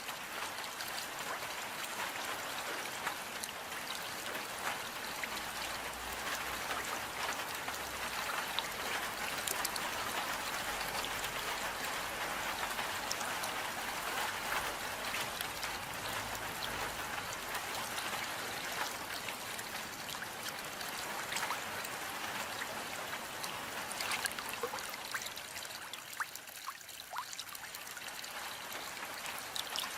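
Steady rain, with many individual drops ticking close by over trickling water. It eases a little near the end.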